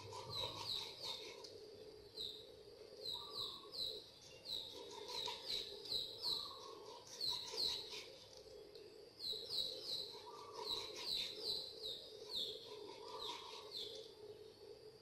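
Small birds chirping in short, high cheeps, repeated in irregular clusters, with faint ticks from a knife cutting pork on a wooden chopping board.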